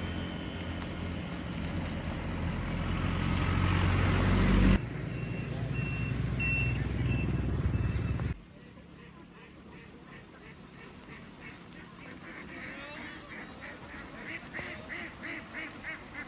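A large truck's engine runs and grows louder, then cuts off abruptly. A few short high beeps sound over engine noise. After another cut, a flock of ducks quacks in quick repeated calls that get louder toward the end.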